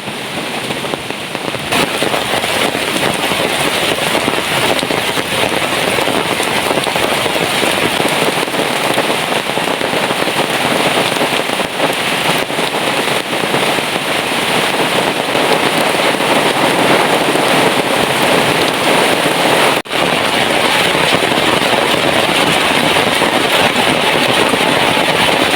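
Heavy rain falling steadily as a loud, even hiss; it grows louder about two seconds in and drops out for an instant near the twenty-second mark.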